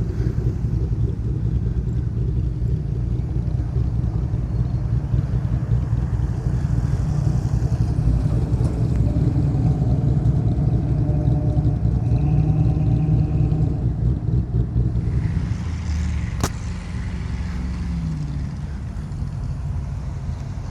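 Engines of classic cars rumbling as they drive slowly past, one engine's pitched note swelling midway. A single sharp click about three quarters through.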